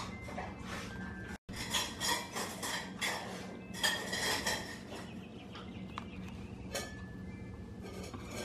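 Metal wind chime jangling in gusty storm wind: irregular strikes with ringing tones that hang on, busiest in the first half and thinning out later.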